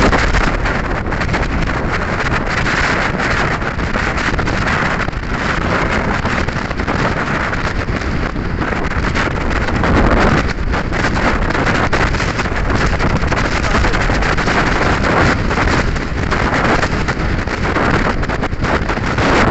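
Strong gusting wind buffeting the microphone: loud wind noise that swells and dips.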